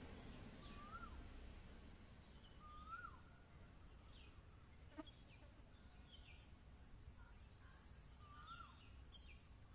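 Near silence with faint bird calls: three short whistled notes that each rise and then drop, and scattered higher chirps. There is a single faint click about halfway through.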